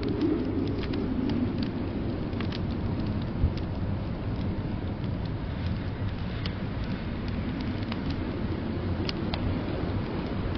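Wood fire crackling in a fireplace, with scattered sharp pops and snaps over a steady low rumble of storm outside.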